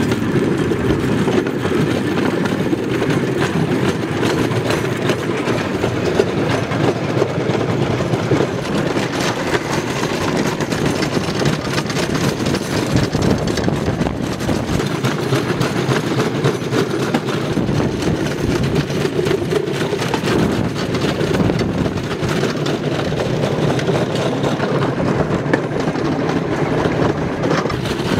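Rail bike rolling along railway track: a steady rumble of steel wheels on the rails, with fine clicking throughout.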